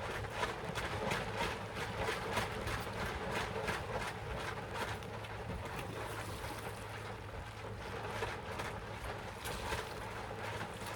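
A plastic tarp flapping and crackling in the wind, with irregular rattles over a steady rumble of wind.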